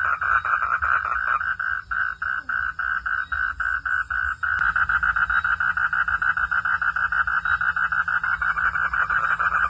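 Frogs calling at night: a pulsing call repeated about five times a second, which switches abruptly about halfway through to a faster, denser pulse, over a low steady rumble.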